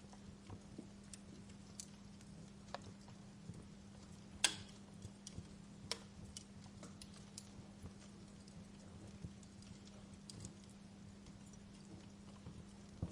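Wood fire crackling in a fireplace: irregular small snaps and pops, the loudest pop about four and a half seconds in, over a faint steady low hum.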